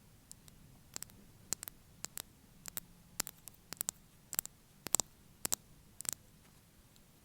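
Fake fingernails tapping: sharp, bright clicks in an irregular rhythm, often in quick doubles, about twenty taps in five seconds. The tapping stops about a second before the end.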